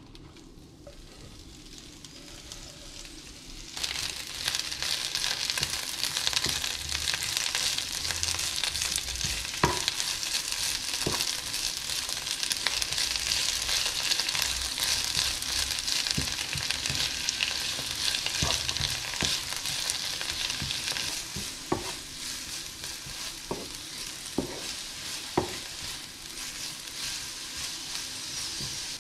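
Chopped spinach sizzling as it fries in olive oil in a nonstick pan, with a wooden spatula stirring it and ticking against the pan now and then. The sizzle starts abruptly about four seconds in as the spinach goes into the hot oil, and eases somewhat near the end.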